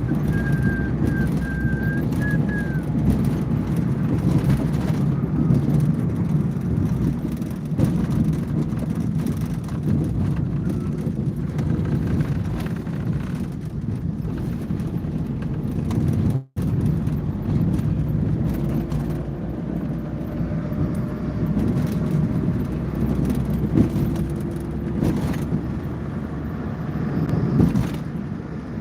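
Steady running noise of a car on the move, mostly a low rumble of road and engine, with a brief cut-out about halfway through.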